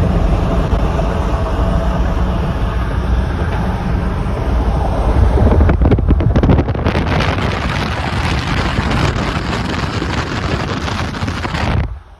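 Wind rushing and buffeting the microphone through an open car window while driving, over the car's road and tyre rumble. It cuts off suddenly near the end.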